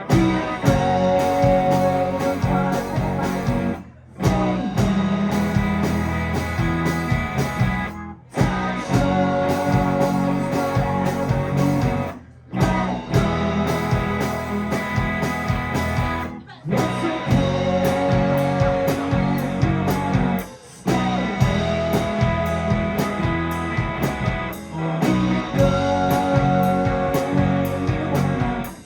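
Live rock band (electric guitar, bass, drums and keyboards) playing an instrumental passage with no vocals. The whole band stops for a split second about every four seconds, then comes back in together.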